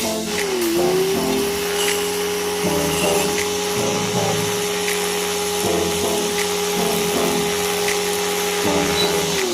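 Car-wash equipment motor running with a steady whine over a hiss. Its pitch sags briefly and recovers just after the start and again at the end.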